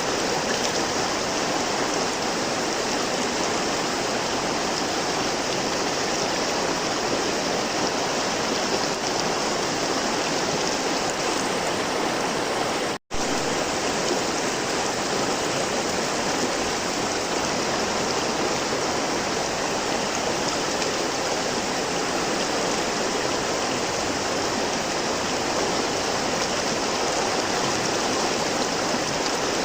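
River water flowing in a steady, even rush. The sound drops out for an instant about 13 seconds in, then carries on unchanged.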